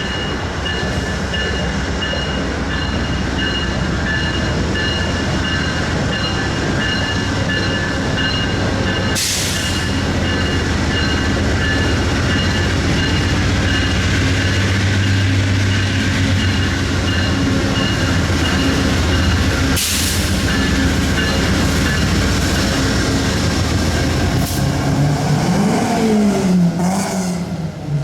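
Amtrak P42DC diesel locomotive and train running close by, a steady loud rumble with a constant high whine and a few sharp knocks. Near the end an engine note rises and falls.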